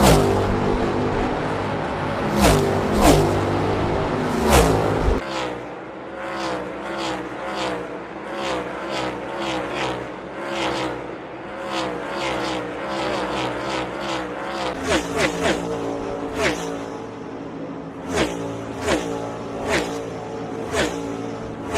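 NASCAR Next Gen stock cars' V8 engines at racing speed: pitch repeatedly climbing and dropping as cars accelerate, shift and go past one after another. About five seconds in the sound changes abruptly, losing much of its deep rumble.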